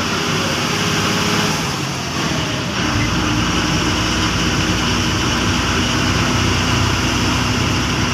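KSRTC bus running on the road, with engine and road noise heard from inside the cabin. About three seconds in, a heavy low rumble sets in and stays.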